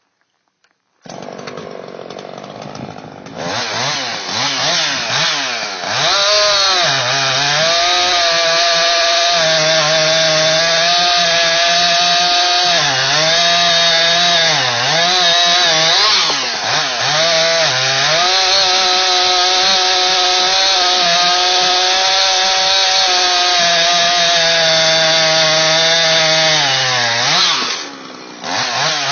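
Two-stroke chainsaw idling for a couple of seconds, then revving up and cutting through oak. Its engine pitch sags and recovers again and again under load, as the chain's rakers are set for pine and take deep bites. Near the end it drops back to idle briefly, then revs again.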